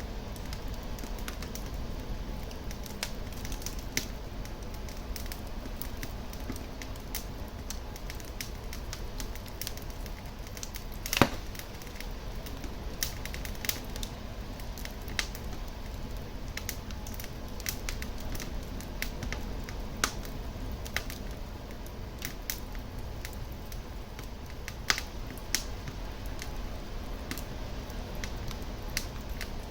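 Wood fire burning in a fireplace: a steady low rumble of flame with irregular crackles and pops from the burning logs, the loudest pop about eleven seconds in.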